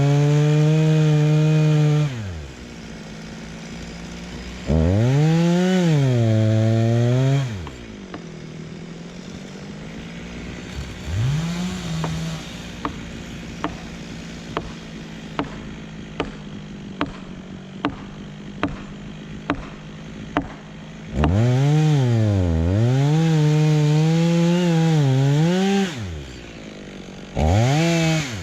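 Two-stroke chainsaw cutting wood in three full-throttle bursts, its pitch sagging and recovering as the chain loads in the cut, dropping back to idle between bursts and briefly blipping near the end. While it idles in the middle, about a dozen sharp knocks come at a steady rhythm, roughly one every 0.7 seconds.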